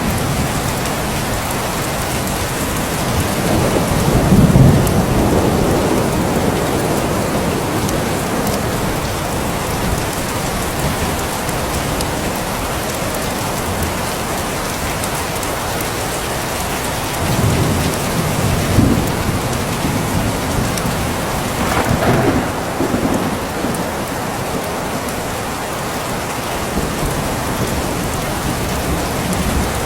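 Steady rain hissing, with low rumbles of thunder swelling up about four seconds in and again several times past the middle.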